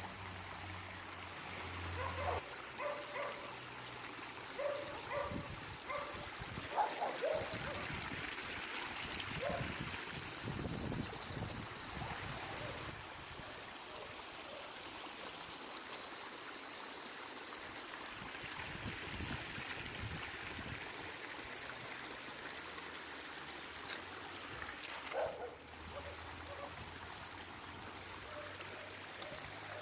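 Flash-flood water rushing steadily. Short dog barks sound over it in the first ten seconds or so and once more near the end.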